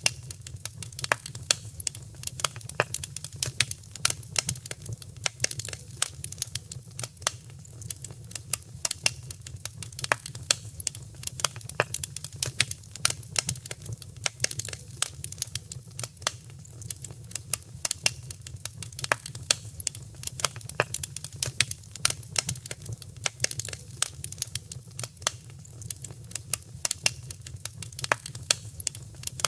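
Fire crackling in a fireplace: a dense, irregular stream of sharp snaps and pops over a steady low rumble.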